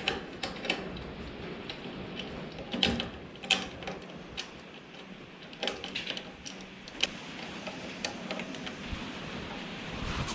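Irregular metallic clicks and clinks of hand tools and small metal parts being handled during work on a motorcycle's spark plug, with a few louder knocks about three and a half seconds in and again near six and seven seconds.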